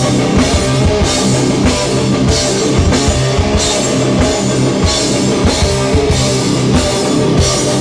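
Hardcore band playing live without vocals: distorted electric guitars, bass and a drum kit, with cymbals struck about every two-thirds of a second on a steady beat.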